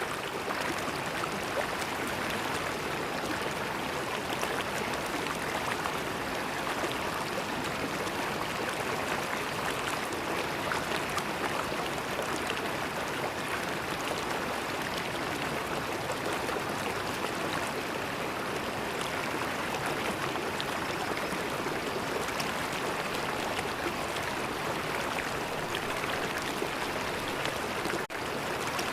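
River water flowing: a steady, unbroken rush of moving water, with a momentary drop in level near the end.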